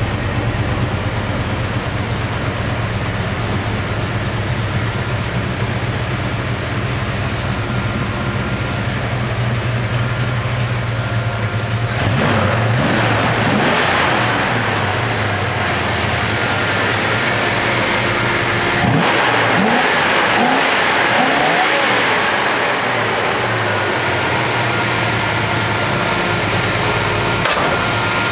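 Car engines running in the background: first a steady low hum, then from about twelve seconds in a louder rumble with engines being revved, their pitch rising and falling several times, most clearly a few seconds later.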